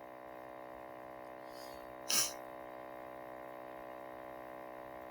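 Steady low electrical hum of the recording's background, many even tones held throughout. About two seconds in, one short noisy burst of breath from the narrator.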